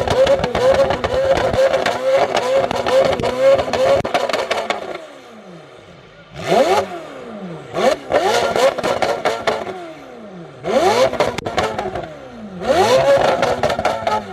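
A sports car engine running at held high revs, then dropping back and being revved in about four sharp blips, each climbing quickly in pitch and falling away.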